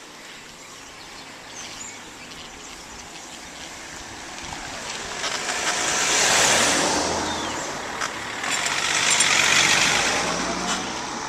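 Two motor vehicles passing close by one after the other, each growing louder and then fading away, with road and tyre noise.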